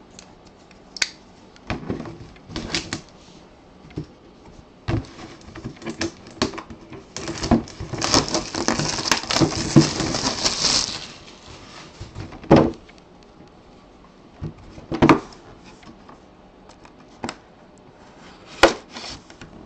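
A cardboard product box and its packaging being handled and opened, with scattered taps and knocks. About seven to eleven seconds in there are a few seconds of steady rustling.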